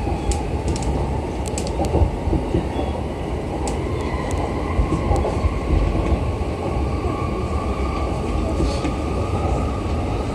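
Running noise of a JR East E235 series electric train, heard from inside the lead car: a steady rumble of wheels on rail with a faint whine above it and scattered light clicks.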